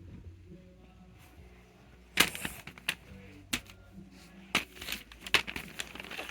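Fidget toys being handled and set down: a few sharp clicks and taps, the loudest a little over two seconds in, over a low steady hum.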